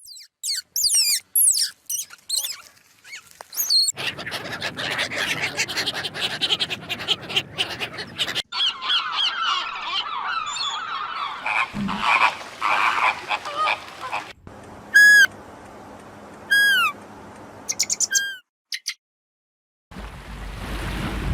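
Animal calls: short, falling whistle-like calls repeated several times. Then a dense chorus of many calling animals for about ten seconds, then the falling calls again.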